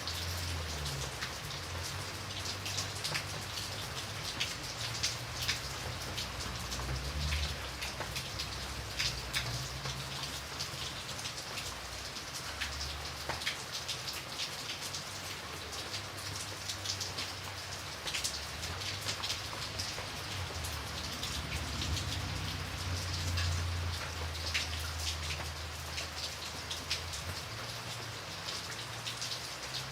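Steady rain, with many separate drops striking a surface over a continuous hiss. A low rumble underneath swells and fades.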